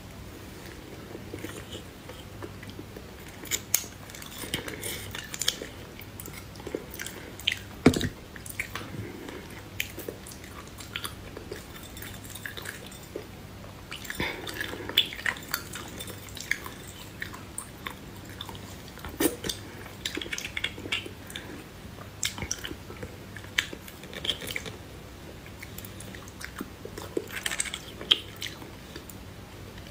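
Close-miked mouth sounds of eating beef bone marrow: irregular wet chewing, smacking and clicking. A single sharper knock comes about eight seconds in.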